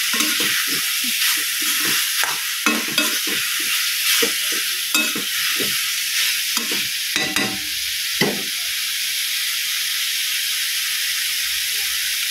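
Mutton liver sizzling as it fries in a pan, with a spatula scraping and tossing it in quick irregular strokes for about the first eight seconds, then just the steady sizzle. The liver is cooked through and at the end of frying.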